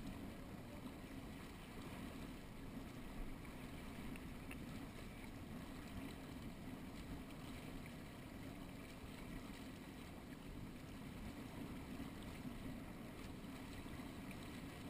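Steady rush of wind and water aboard a small catboat sailing under way, with no distinct events standing out.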